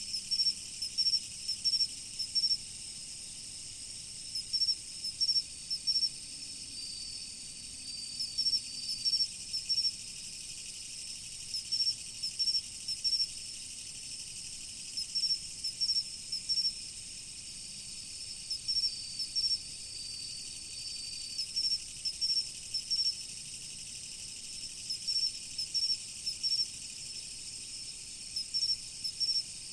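Chorus of autumn crickets: a steady high trilling, with clusters of short, loud chirps every second or two and a few longer held trills a little lower in pitch.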